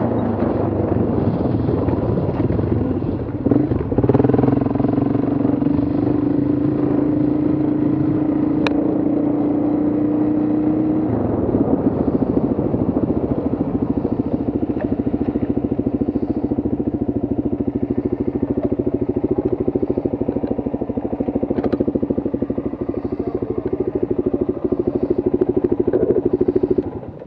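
Dirt bike engine running at steady speed. About eleven seconds in it drops to low, evenly pulsing revs, and it cuts off at the very end.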